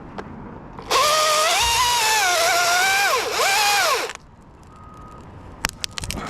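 Chainsaw run at high revs for about three seconds, its pitch dipping twice as it loads in the cut, then cut off abruptly. A few sharp clicks follow near the end.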